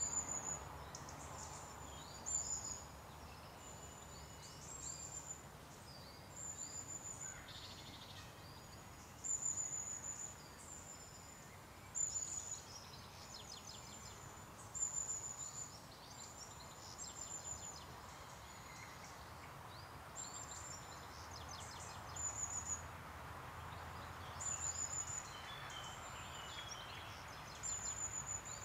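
A small songbird singing a short, very high-pitched phrase over and over, every two to three seconds, with a steady low rumble beneath.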